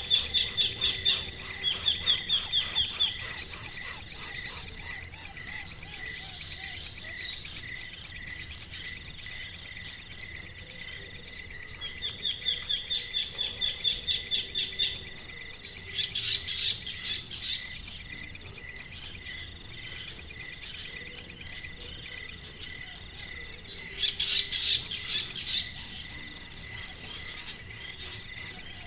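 A baby bird giving rapid, evenly spaced high chirps in distress. The calling drops away about ten seconds in and comes back strongly around fifteen seconds.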